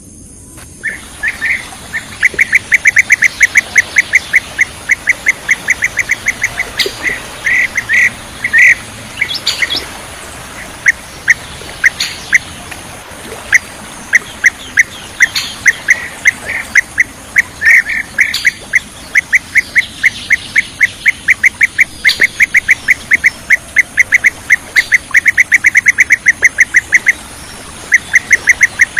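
Bee-eaters calling: rapid runs of short, clipped notes, about seven a second, with louder, sharper single calls mixed in, starting about a second in and pausing briefly near the end.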